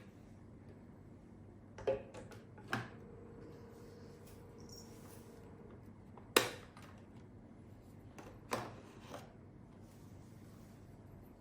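Five short plastic clicks and knocks from handling a Nescafe Dolce Gusto Piccolo coffee machine, the loudest about six seconds in, over a faint steady hum.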